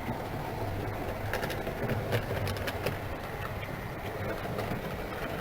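Steady low whirr and hum of a 00 gauge model locomotive running round the layout, with the electric cooling fans in the loft running behind it.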